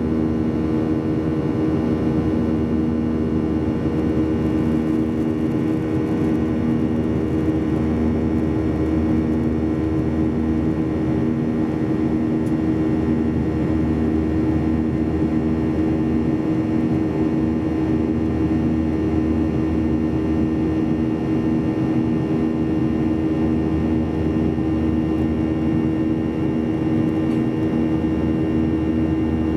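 Boeing 737-800 cabin noise in flight: the steady drone of the CFM56 turbofan engines and airflow, with a constant low hum of tones and no change in pitch.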